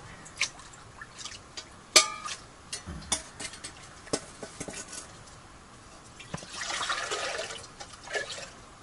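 Water being poured into a metal camp cooking pot, with scattered clinks of metal. A sharp ringing clank comes about two seconds in, and a longer splashing pour near the end.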